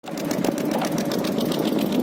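A boat engine running steadily with a rapid, even knocking beat.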